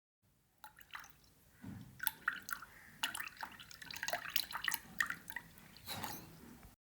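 Water dripping and splashing in many small, irregular wet clicks, starting and cutting off abruptly.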